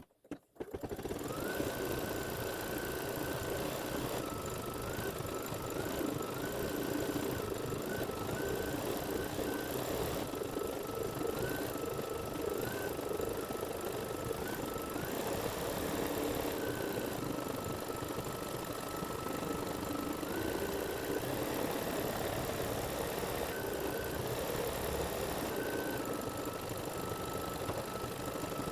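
Embroidery machine stitching out lettering, starting up about half a second in and running steadily, with a fast rattle under a motor whine that steps between two pitches as it sews.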